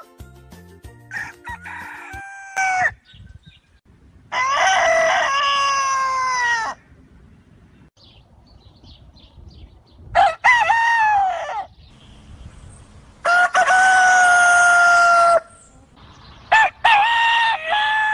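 A rooster crowing over and over: four long crows of about two seconds each, spaced a few seconds apart, with a shorter, quieter call about a second in.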